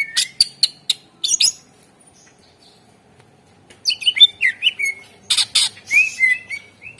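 Cucak ijo (green leafbird) singing in two loud bursts, the first in the opening second and a half and the second from about four seconds in. The bursts mix short slurred whistles with sharp, scratchy notes.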